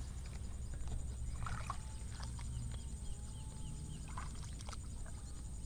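Open rice-field ambience: a low wind rumble on the microphone, with a short run of about six quick high chirps about three seconds in and a few soft clicks.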